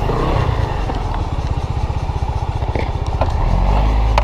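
A motor vehicle engine running with a steady low pulsing, then rising in pitch as it accelerates near the end.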